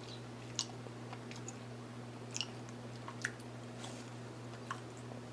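Mouth chewing of a sauced buffalo chicken wing, soft and wet rather than crunchy, with a few faint clicks, over a steady low hum.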